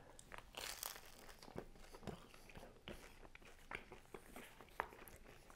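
Faint mouth sounds of chewing crispy thin-crust pizza: irregular small crunches and crackles of the crust.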